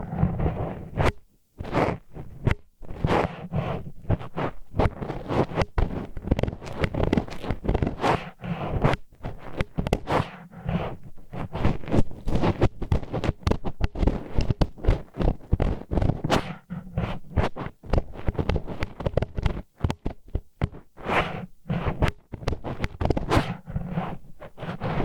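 Disposable wooden chopstick used as an ear pick, scraping and grinding against the ear wall in a quick, irregular run of short scratchy strokes close to the microphone.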